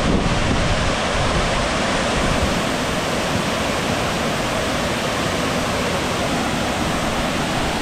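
Waterfall pouring steadily into a plunge pool: a loud, even rush of falling water.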